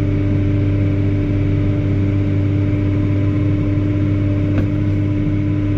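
Versatile 2375 four-wheel-drive tractor engine running steadily under load, with a constant low drone and a steady whine, heard from inside the cab. A single light click sounds a little after the middle.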